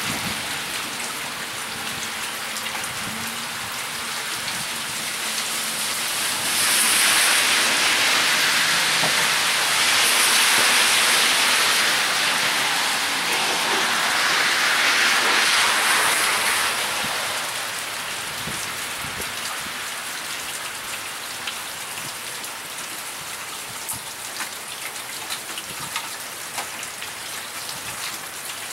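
Heavy rain pouring steadily onto wet pavement and grass: a dense hiss that swells louder for several seconds at a time in the middle, with scattered drips ticking near the end.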